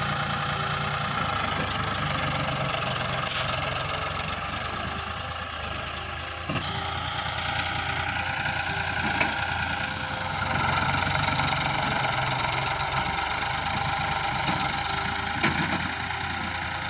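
Tractor diesel engine running steadily, with a few sharp clicks. It gets louder about ten seconds in.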